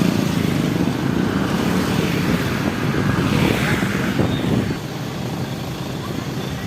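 A motorcycle engine running on a ride, under a steady rushing noise; the engine sound eases off about five seconds in.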